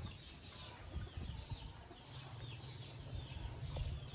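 Faint high bird chirps, short and repeating about twice a second, over a low steady rumble.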